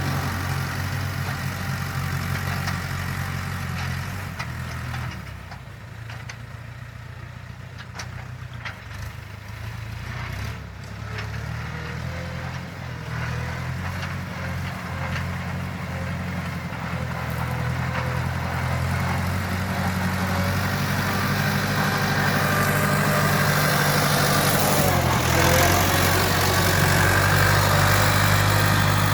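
Farm tractor engine running steadily, dropping quieter for a stretch from about five to twelve seconds in, then growing louder toward the end.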